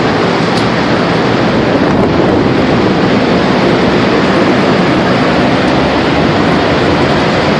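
Tornado winds heard as a loud, steady rushing noise that does not let up.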